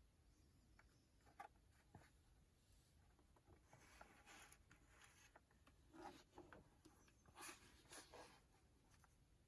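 Near silence with faint scattered clicks and brief rustles, such as light handling of objects, mostly in the middle and later part.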